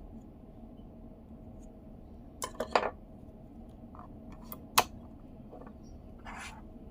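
Small hard parts being handled on a work surface: a quick cluster of clicks and clinks about two and a half seconds in, a loud single click just before five seconds, and a short rub near the end.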